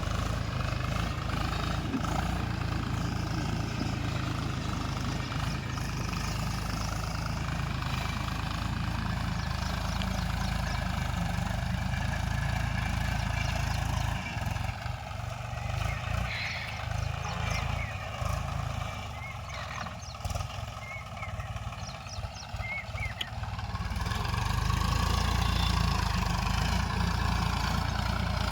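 39 HP tractor's diesel engine running with a steady low rumble. The sound weakens and wavers for several seconds past the middle, with a few short high chirps over it, then comes back louder near the end.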